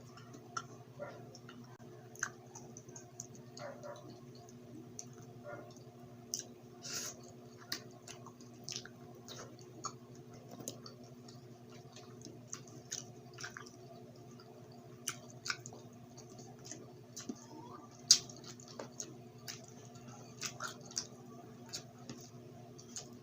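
A person chewing grilled Filipino street food close to the microphone, with many short mouth clicks and smacks, one sharp click about 18 seconds in the loudest. A steady low hum runs underneath.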